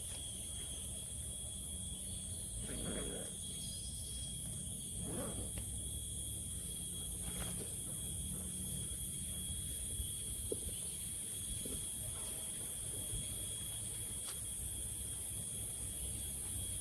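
Steady high-pitched insect chorus, crickets chirring without a break, over a low rumble, with a couple of soft sounds a few seconds in and a few faint clicks later on.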